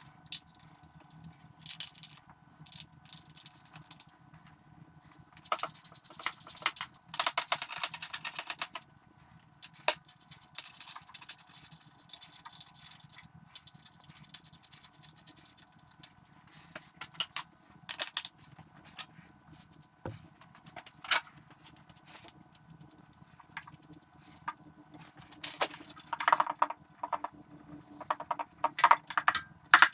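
Irregular clicks and light metallic clinks and rattles, busiest in two stretches, one a few seconds in and another near the end.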